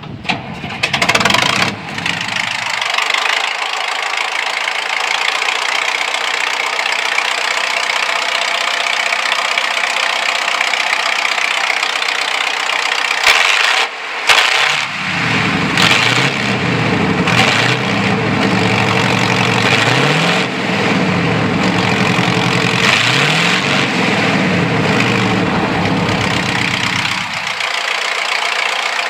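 International 1568 tractor's V8 diesel engine starting and running, revved up and down several times in the second half before settling back.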